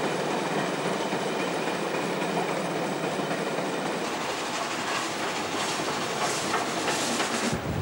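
Train carriages running on the rails close by: a steady rumbling rail noise with wheel clatter, and a few sharper clicks near the end.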